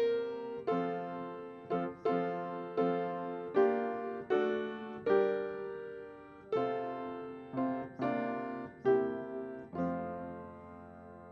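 Piano playing a slow run of chords, each struck and left to decay, about one a second, ending on a final chord that rings and fades near the end.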